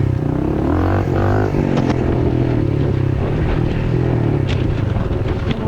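Honda CRF110F pit bike's small single-cylinder four-stroke engine running under throttle, its pitch shifting a little as the revs change, with a few short knocks from the bike over rough ground near the end.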